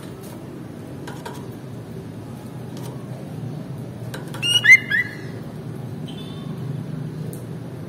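Sooty-headed bulbul (kutilang) giving a short, loud burst of two quick call notes about halfway through, with a fainter note a second later, over a steady low background hum.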